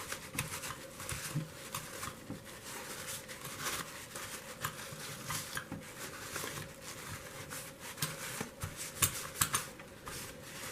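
Light, irregular clicks, taps and scraping of small tools and metal parts being handled while a postwar Lionel F3 diesel's power truck is taken apart and cleaned, over a faint steady hum.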